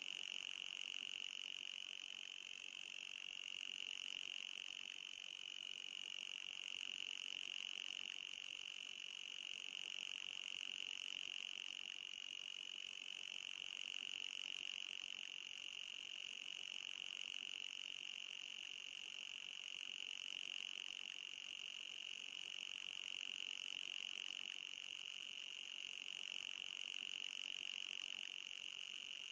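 Electronic anti-mosquito repeller tone: a continuous high-pitched whine with a fainter, higher hiss above it, wavering slightly in pitch and level.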